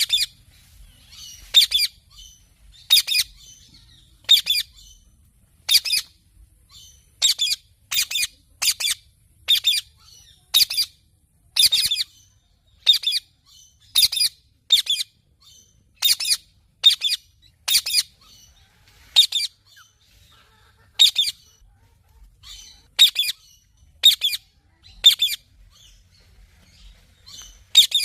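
A parrot giving short, sharp, high-pitched calls over and over, about one a second, some in quick pairs, with brief gaps between.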